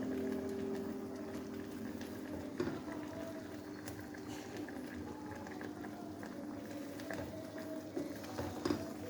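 Chicken in a yogurt-and-cream marinade simmering in a covered kadhai on a gas flame, bubbling steadily with a few small pops, over a low steady hum.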